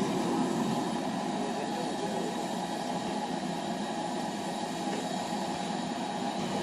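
A heritage railway train running with a steady rumble of wheels and carriages on the track.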